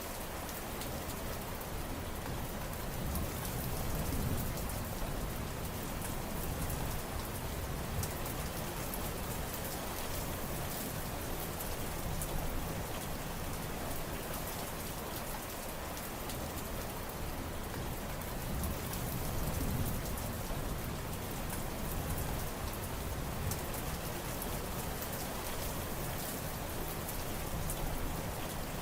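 Steady rain falling, an even wash of sound full of individual drop hits.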